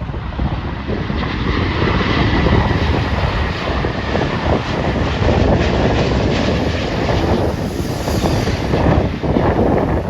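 Jet airliner on landing approach passing by, its engines a loud steady rumble that swells about two seconds in, with a thin whine that fades after about three seconds. Wind buffets the microphone throughout.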